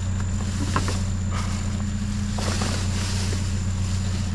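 Engine idling steadily with a low, even hum, with a few light knocks and rustles over it.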